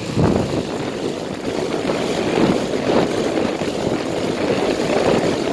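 A 2007 5-ton central air conditioner condensing unit running, with a steady rush of air from its condenser fan blowing out hot air.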